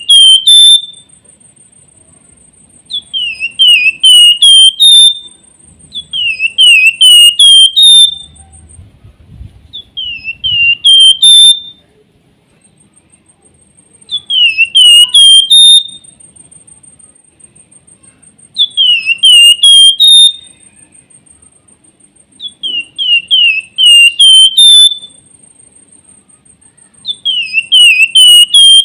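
Flamboyan (wergan jawa) songbird singing its whistled 'nyiul' song: loud phrases of four or five short slurred whistles, repeated about every three to four seconds, each ending on a higher note.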